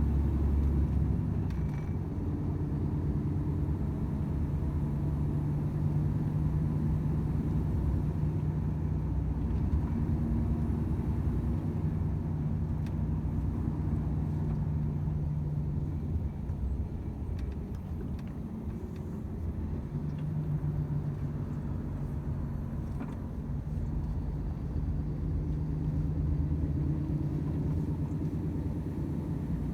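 Volvo FH 500 truck's 13-litre straight-six diesel running under way, a steady low engine drone with road rumble; the engine tone fades for a few seconds a little past the middle, then returns.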